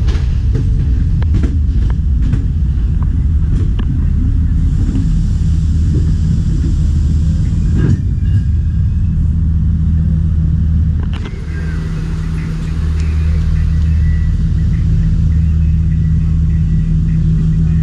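Diesel train heard from on board: a low steady rumble with wheel clicks over the rail joints in the first few seconds, then a steady low engine drone, dipping briefly about eleven seconds in.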